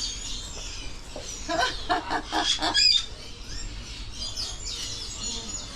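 A parrot giving a quick run of about six short calls, ending in a sharp high squawk, over background birdsong chirping.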